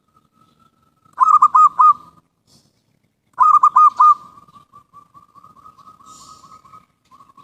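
Zebra dove (perkutut) cooing: two loud phrases of three ringing notes each, about two seconds apart, then a softer, fast rolling coo at the same pitch that runs on for a few seconds.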